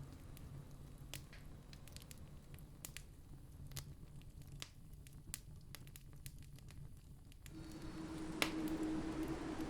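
Campfire crackling: scattered sharp pops and snaps over a faint low hum. About three-quarters of the way through, a louder steady rushing noise comes in beneath the crackles.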